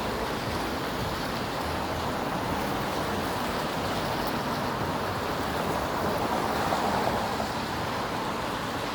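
Steady city street noise of traffic on a wet road, a continuous hiss of tyres on rain-wet pavement.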